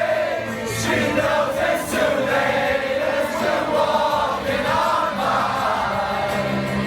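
Party music playing loudly, with a crowd of people singing along together.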